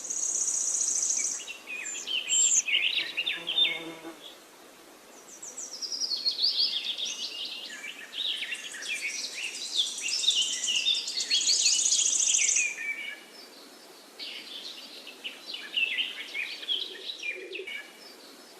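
Several songbirds chirping and trilling in overlapping short calls, with a high, buzzing trill twice: at the start and again about 11 seconds in.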